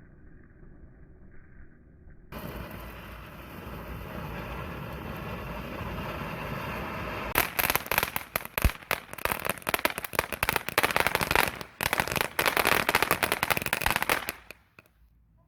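Consumer firework going off: a steady hiss starts a couple of seconds in, then turns into dense, rapid crackling and popping for about seven seconds, which stops abruptly just before the end.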